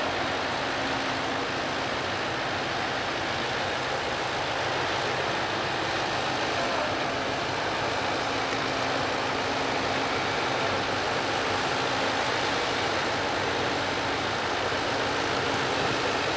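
Pusher tug's diesel engine running steadily, a constant rumble with a low hum and a wash of noise.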